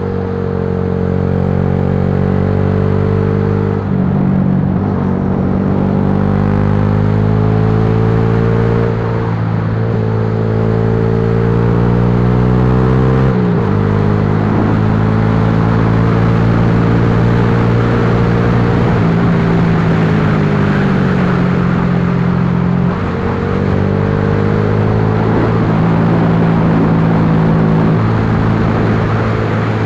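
Yamaha Lagenda 115 FI's single-cylinder four-stroke engine running on the road, its pitch climbing and falling with the throttle and stepping suddenly about 4, 13 and 23 seconds in as the gears change, with a slow fall around 20 seconds. Steady wind rush under it.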